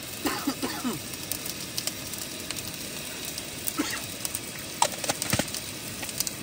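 Onion-tomato masala frying in a wok on a camp stove, a steady sizzle. A few sharp clicks and knocks come about five seconds in.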